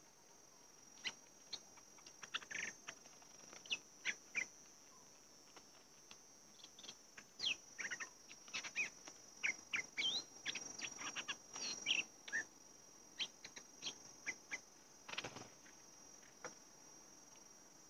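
Bulbuls calling in short, sharp chirps and quick slurred whistles, sparse at first and busiest in the middle, over a steady high-pitched insect drone; a brief rustle about fifteen seconds in.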